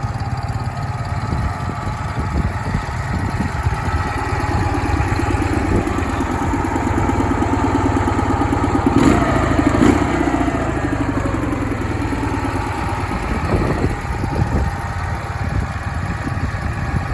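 Ural motorcycle's flat-twin engine running steadily, revved up briefly about nine seconds in, then falling back as the revs drop.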